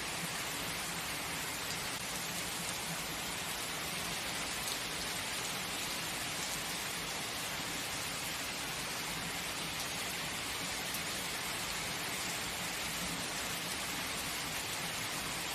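Steady heavy rain falling, an even rushing hiss of drops on surfaces with no change in intensity.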